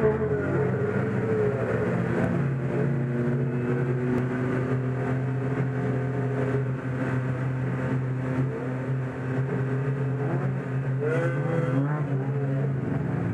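Four-cylinder engine of a Chevrolet Corsa race car idling steadily, heard from inside the cabin, with brief blips in pitch about 11 seconds in.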